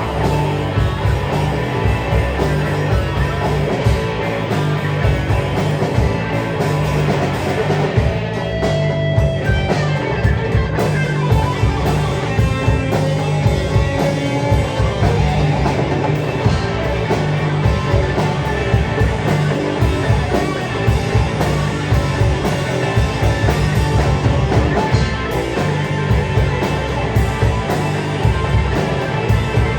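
Live rock band playing an instrumental passage: electric guitar and drum kit over a steady bass line.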